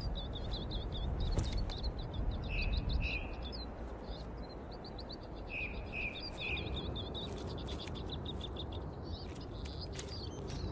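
Small songbirds singing: rapid series of high, repeated chirping and trilling notes, with a few lower whistled notes in two short groups, over a steady low rumble.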